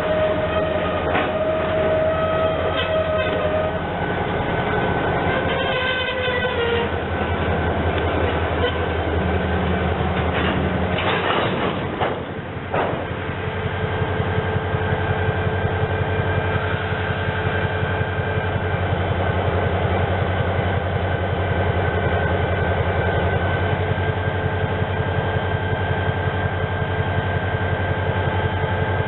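Train running: a steady low drone throughout, a held horn-like tone in the first few seconds, and a short burst of clatter about twelve seconds in.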